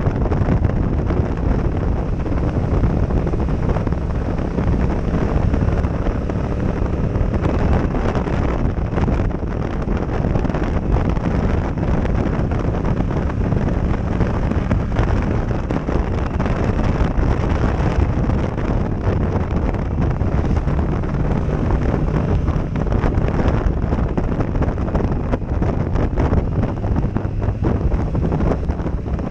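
Heavy wind noise buffeting a helmet-mounted action-camera microphone on a moving motorcycle, with the hum of a Yamaha parallel-twin engine faintly underneath.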